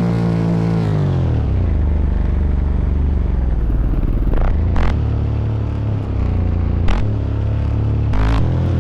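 Motorcycle engines running. One engine's pitch falls as it comes off the throttle in the first second or so, then the sound settles into a steady low rumble with a few short clacks.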